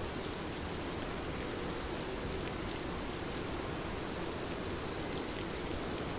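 Heavy rain falling steadily, an even dense hiss with scattered sharper drop ticks.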